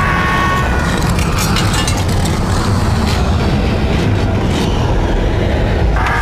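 Horror film sound effects: a loud, dense low rumble with scattered sharp crackles, and a woman's held scream that breaks off about half a second in.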